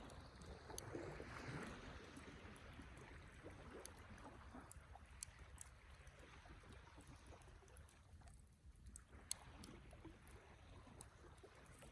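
Wood campfire crackling faintly: scattered small clicks, a few sharper pops, and a low, steady rumble beneath.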